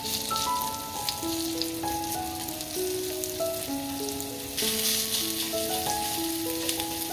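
Shredded potato sizzling in hot oil on a cast-iron pan, the sizzle growing louder a little past halfway. A simple stepping melody of background music plays along.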